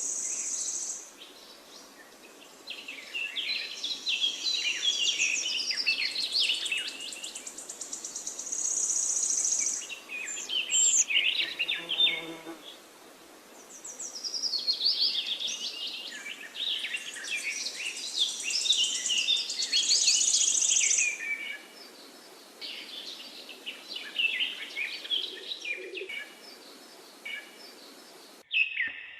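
Forest birds singing in overlapping phrases of quick chirps and warbles, with a high, thin, buzzing trill coming and going. The sound drops out suddenly for a moment near the end.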